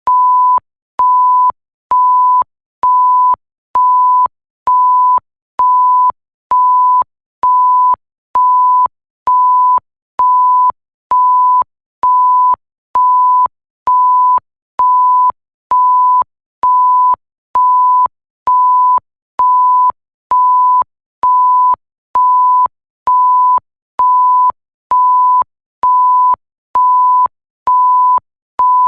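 Censor-style bleep: a pure 1 kHz tone beeping on and off at an even pace, about one beep a second, each beep a little over half a second long.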